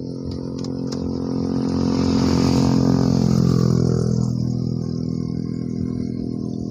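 A motor vehicle passing on the road: engine hum and tyre hiss build up, are loudest around the middle, then fade away as it goes by.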